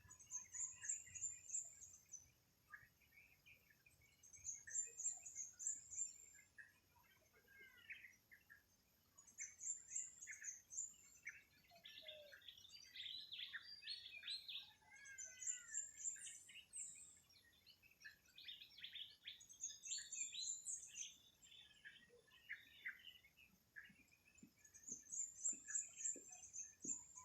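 Several birds singing and chirping together in a village morning chorus. One bird repeats a short, high trilled phrase about every five seconds, while other birds give scattered chirps and short whistles in between.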